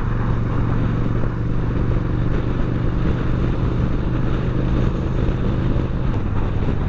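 Yamaha Bolt's air-cooled V-twin engine running at a steady cruising speed, with no revving or change in pitch, mixed with the rush of wind and road noise.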